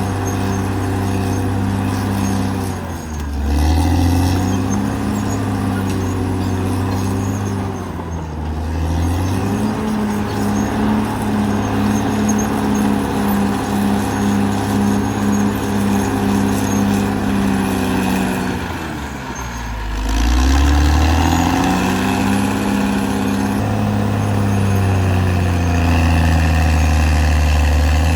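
Caterpillar D6R XL bulldozer's diesel engine running hard and steadily while it works. Its note sags and climbs back up three times, about three seconds in, near nine seconds and near twenty seconds.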